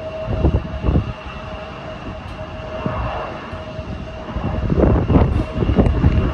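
Jet airliner engines running with a steady whine, with irregular low rumbling surges about half a second and a second in, and again through the last couple of seconds.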